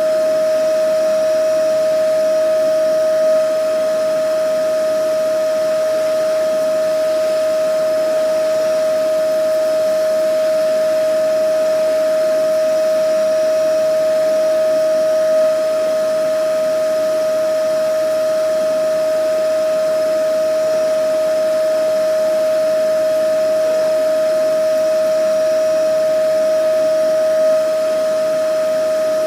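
Vacuum cleaner motor running steadily: an even whoosh of air with a constant high-pitched whine. A slight bump in level comes about every twelve seconds.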